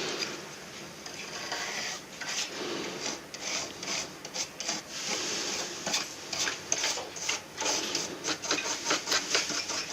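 Rubbing and scraping handling noise in quick, irregular strokes, from hands working on an air conditioner unit.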